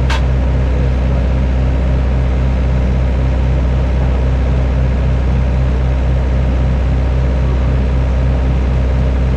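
Excavator diesel engine running steadily with an even, rapid low throb. A short sharp click right at the start.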